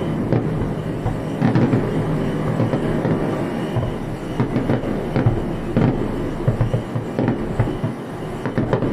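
Fireworks going off in a dense barrage: a continuous rumble of overlapping bursts with sharp cracks scattered through it.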